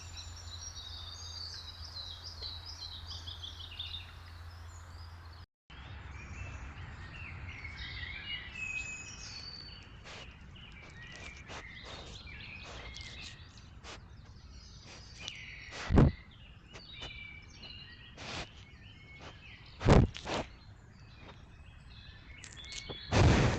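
Small birds singing and chirping over the steady background of a trail camera's microphone. The song breaks off briefly partway through, and several loud thumps close to the microphone come in the second half.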